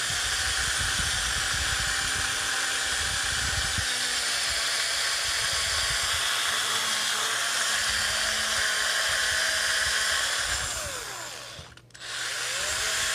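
Electric drill spinning an engine valve while sandpaper is held against the valve body: a steady motor whir with a scratchy sanding hiss. The drill winds down and stops about eleven seconds in, then starts up again near the end.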